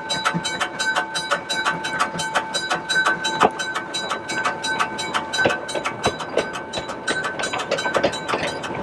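Puffing Billy narrow-gauge steam train running, with a fast, even beat of about eight strokes a second.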